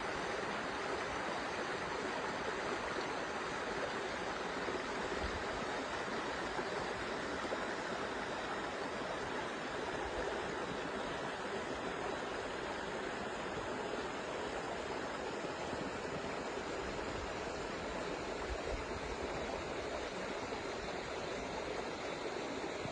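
Creek water running steadily, a continuous even rush.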